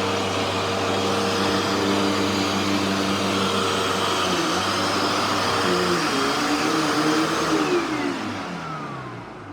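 Vacuum cleaner motor running with a steady hum and hiss. Near the end it winds down, its pitch sliding lower and the sound fading.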